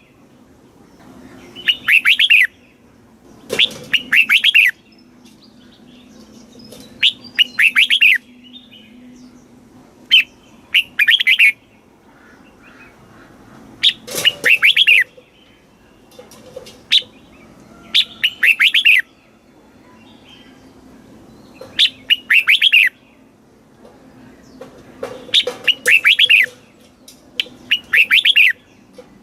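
Red-whiskered bulbul singing: short, bright, warbling phrases about a second long, repeated every two to three seconds. It is a song recording of the kind played to teach young caged bulbuls or to rouse competition birds.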